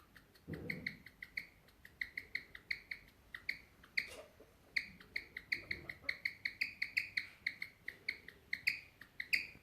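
Guinea pig chirping: a long run of short, high, bird-like chirps, about three to four a second, with a brief pause midway. A brief low noise comes about half a second in. This rare call is held to be a sign of inner tension, though its exact cause is unknown.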